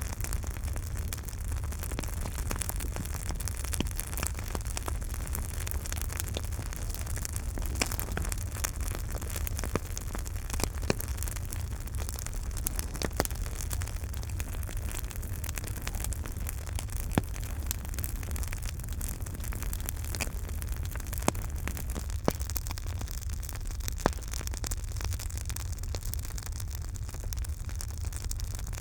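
Campfire burning with a steady low rumble and hiss, and scattered sharp crackles and pops from the burning wood, a few louder pops standing out.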